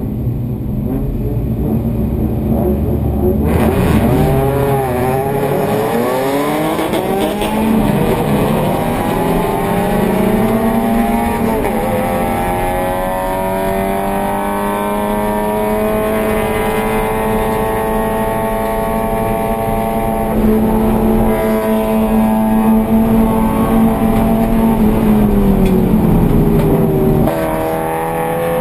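Scion FR-S race car's 2.0-litre flat-four engine heard from inside the stripped cabin. It runs low for the first few seconds, then accelerates hard, its pitch climbing in several sweeps through the gears. It holds a steady high note for about ten seconds, drops as the car slows near the end, then starts to climb again.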